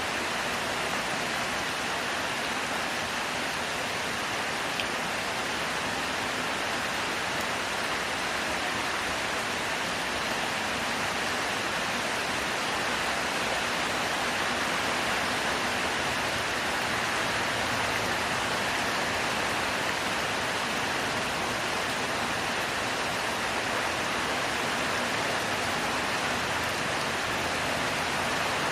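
Heavy rain falling steadily in a dense, even hiss, with no let-up or change.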